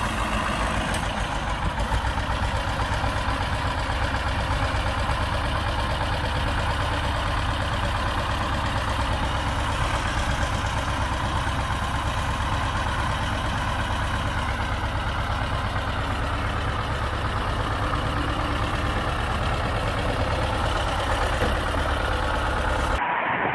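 Heavy vehicle engine running steadily with a deep, constant low hum.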